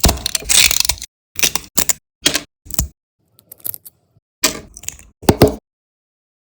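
Sharp cracks and clicks of hard 3D-printed plastic parts being handled: a dense second of rattling clatter, then about six separate short clicking bursts.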